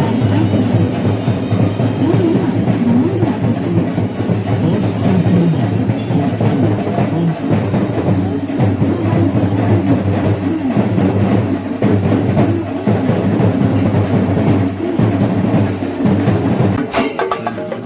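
Loud, dense drumming from a Kerala temple-festival percussion ensemble, with a wavering melodic line over the drums. A short cluster of sharp clicks comes near the end.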